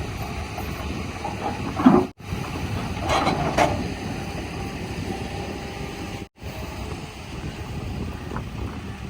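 Diesel engines of heavy vehicles running, with a louder spell and a brief rising note about three seconds in. The sound cuts out abruptly twice for a moment.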